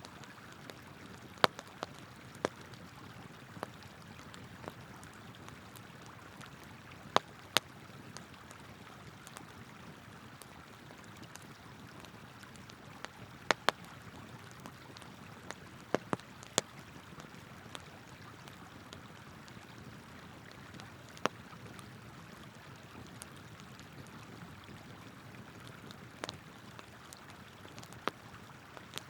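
Burning firewood crackling and popping with sharp, irregular snaps over the steady rush of flowing river water.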